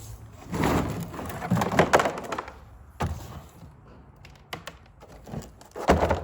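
Clattering and scraping as a drain pan is handled and set down on a garage floor, with a sharp knock about three seconds in and another loud knock near the end.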